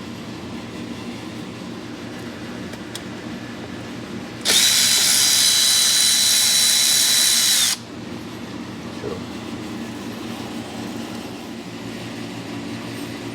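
Power drill running at a steady high whine for about three seconds, starting and stopping abruptly.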